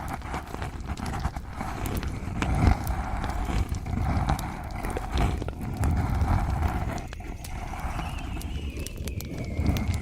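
ASMR trigger sounds made right at a recorder's microphones: rough rubbing and scratching with scattered sharp clicks and soft knocks, one thump about two and a half seconds in.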